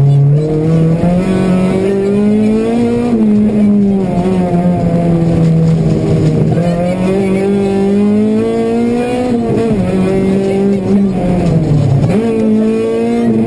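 Honda Civic Type-R rally car's four-cylinder engine heard from inside the cabin, pulling hard at high revs with the pitch rising and falling through throttle lifts and gear changes; near the end the revs drop sharply twice and climb again.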